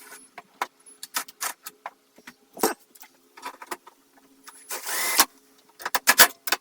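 Hand-tool work on scooter parts with a 10 mm socket: scattered clicks and knocks of metal and plastic, with a brief scraping rush about five seconds in. A faint steady hum runs underneath.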